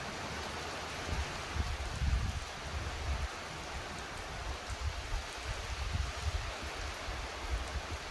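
Steady thunderstorm rain with gusts of wind buffeting the microphone in low, irregular rumbles.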